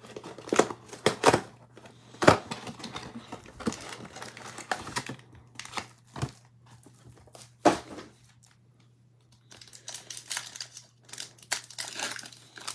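Trading-card mega box packaging being opened by hand: plastic wrapping crinkling and tearing, with sharp snaps and ticks. It goes quiet for about a second some eight seconds in, then the crinkling starts again.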